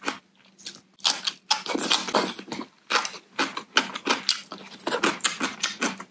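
Close-miked chewing of a crunchy bite of yellow pickle, with many quick, irregular wet crunches starting about a second in.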